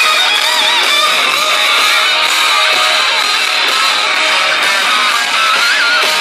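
Live hard rock band playing loud, with distorted electric guitars and a wavering, bending lead guitar line on top; the low end is cut off, as on a phone or camera recording.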